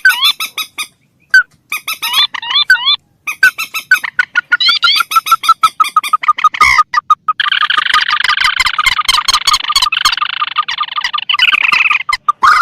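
Recorded rail calls, swamphen and crake, played as a bird-catching lure: a run of quick, rising squawks, then from about seven seconds in a dense, rapid chattering that lasts until near the end.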